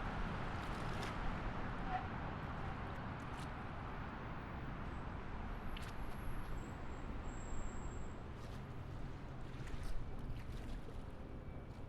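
Highway traffic heard from a distance: a steady low rumble and hiss of passing vehicles, with a few faint clicks and brief high tones over it.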